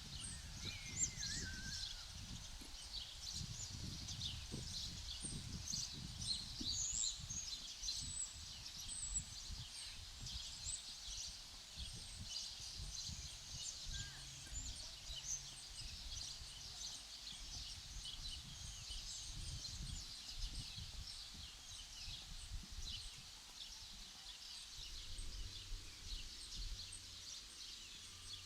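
Many small birds chirping continuously, dozens of short overlapping high calls, over a low, irregular rumble.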